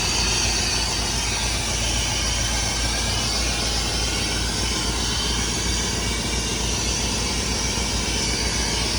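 Ford 460 big-block V8 of a 1996 F-250 running steadily just after firing up, with a hiss over it. Its ignition timing is still being set by ear after a distributor swap.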